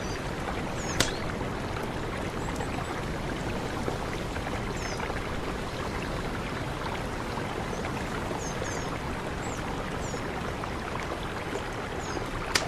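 Mountain river flowing with a steady rush. Short high chirps come and go over it, and there are two sharp clicks, one about a second in and one near the end.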